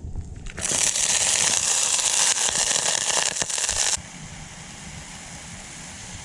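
Food sizzling and spitting in a hot pan. The sizzle starts suddenly about half a second in, then drops abruptly to a quieter steady hiss about four seconds in.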